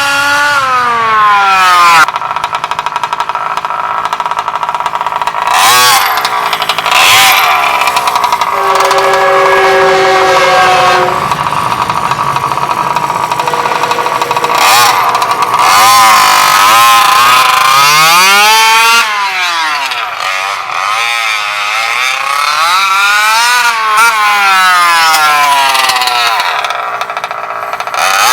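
Bartolone Racing BR40 big-bore two-stroke engine in a Losi 5ive-T 2.0 large-scale RC truck, revving hard on speed runs. The pitch climbs as the truck accelerates and then falls away as it passes and slows, several times over. There is a steadier, even engine note for a few seconds about a third of the way in.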